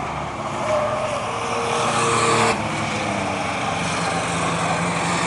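Engines of stock race trucks running at speed around an oval track, building up and then dropping off sharply about two and a half seconds in before running on steadily.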